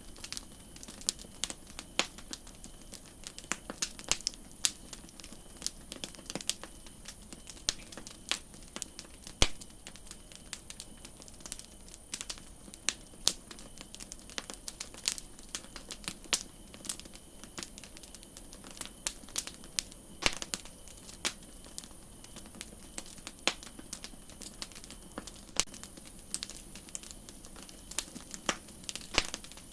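Wood campfire crackling, with irregular sharp snaps and pops several times a second over a soft steady hiss. One pop about nine seconds in is louder than the rest, and the high hiss grows brighter near the end.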